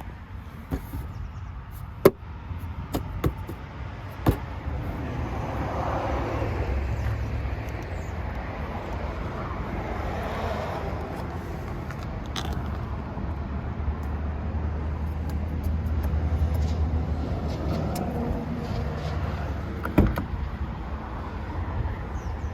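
A few sharp clicks, then the 1988 Mercedes-Benz 560SL's 5.6-litre V8 comes up about four seconds in and runs steadily after a cold start.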